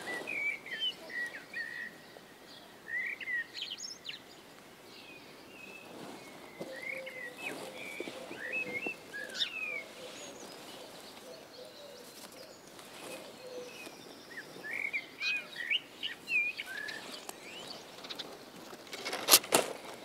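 Small songbirds chirping on and off, short calls in groups a few seconds apart. Faint clicks of hands working in the forest litter, and a sharp knock or snap near the end that is the loudest sound.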